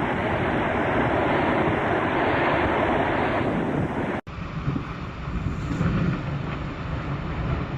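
Wind and sea noise buffeting the microphone in a steady, dense rush. It cuts off abruptly about four seconds in and gives way to a quieter, lower rumble of wind and water.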